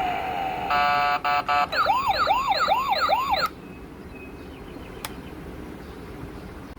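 Toy police car's electronic siren playing from its sound chip. A falling tone is followed by about a second of rapid on-off beeps, then a rising yelp that repeats about three times a second and cuts off suddenly about three and a half seconds in.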